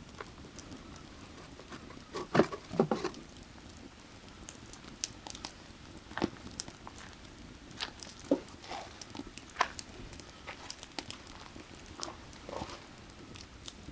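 Burning firewood crackling, with irregular sharp pops and snaps, a quick cluster of louder pops about two and a half seconds in. A steady low rush of creek water runs underneath.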